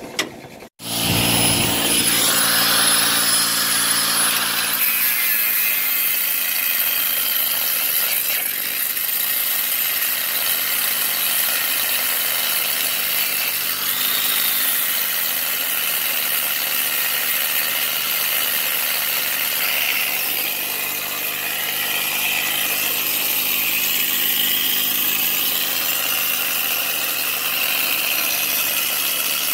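Angle grinder cutting steel: a steady, high grinding hiss that starts about a second in and runs on without a break.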